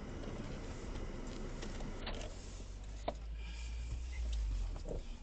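A car driving, its low road and engine rumble picked up by a dashcam, with a sharp click about three seconds in. The rumble swells near the end, then drops off.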